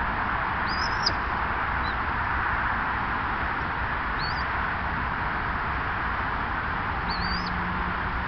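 A small bird gives three short, high chirps a few seconds apart, over a steady hiss.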